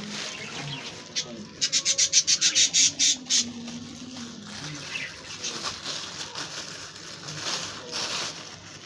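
Budgerigars calling in an aviary, with a loud rapid run of about a dozen harsh notes about a second and a half in, then scattered softer chirps.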